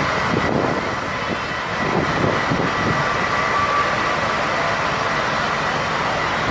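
A large vehicle's engine running steadily, with a faint steady high tone over it.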